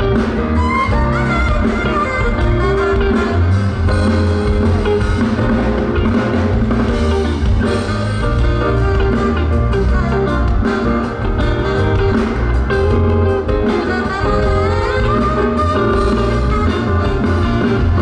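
Live band playing an instrumental passage: guitar over bass and drums, loud and steady.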